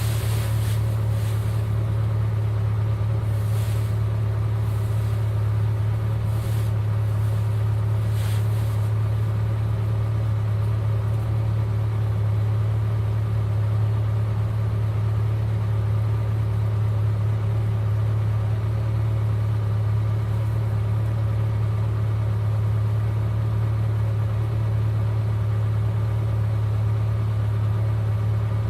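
Eight-cylinder car engine running at a steady speed, a constant low drone that neither rises nor falls.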